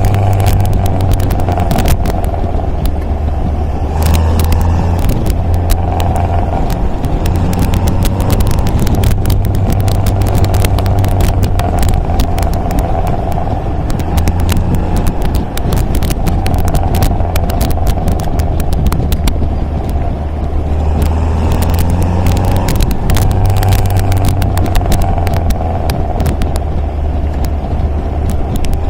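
MGA roadster's four-cylinder engine running at a steady pace under way, its drone shifting slightly up and down with the revs, with many small clicks and crackles over it.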